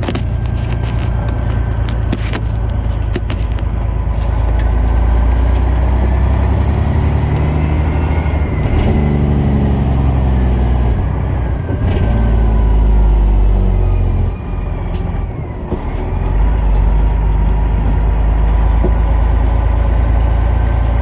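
Detroit Diesel Series 60 inline-six diesel in a semi truck pulling hard under acceleration. Its pitch climbs, then drops back several times as the 13-speed gearbox is shifted up, with a loudness dip near the end of one shift.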